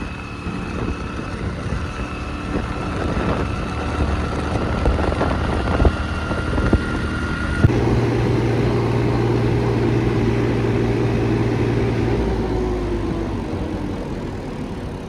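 Motorcycle engine running on a ride. About halfway through, the sound cuts to a louder, steady engine drone that drops slightly in pitch and fades near the end.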